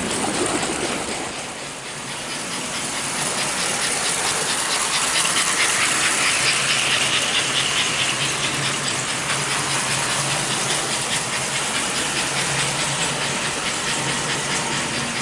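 American Flyer #356 model train locomotive running on its track. It makes a steady rushing hiss with rapid fine clicking over a low motor hum, dipping about two seconds in and growing louder and brighter around the middle.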